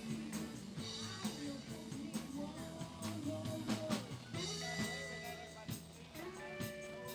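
Live rock band playing, with a singer's voice over electric guitar, bass and drum kit.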